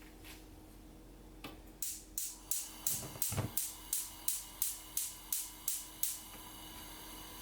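A run of about a dozen short scraping strokes from kitchen food preparation, evenly paced at roughly three a second, stopping near the end.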